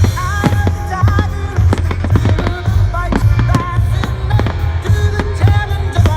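Fireworks banging and crackling in quick, irregular succession over loud music with a singing voice and heavy bass.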